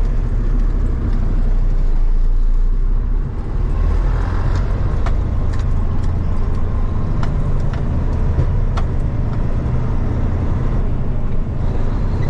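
Delivery truck running and driving slowly through tight turns, a steady low engine and road rumble, with a few sharp clicks or rattles in the middle.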